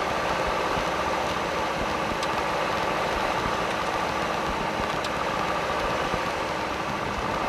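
Piper Cherokee 140's Lycoming O-320 four-cylinder engine running steadily during the pre-takeoff run-up check.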